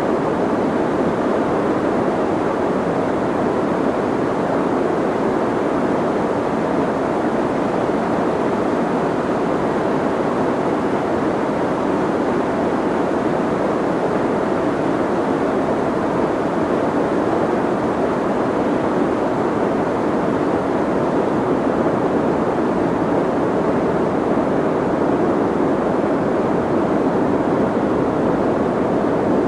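Steady soft white noise, a constant even hiss that never changes, with its weight in the low middle and muted highs, like a dull rushing.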